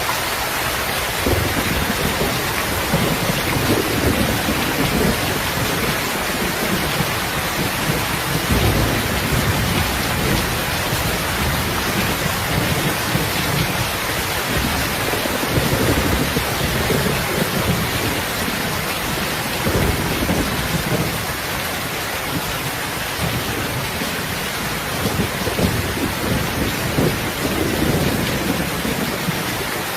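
Steady rain with a dense even hiss, overlaid by repeated low rumbling surges every few seconds.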